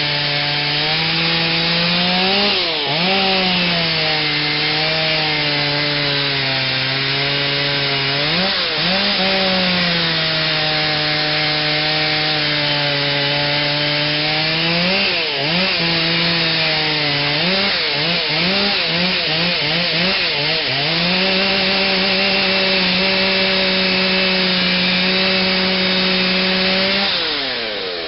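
Stihl 039 chainsaw with a modified, opened-up muffler and a 28-inch bar cutting into a big oak under load. The engine pitch sags and recovers several times and wavers quickly for a stretch, then holds steady before dropping off near the end as the throttle is released.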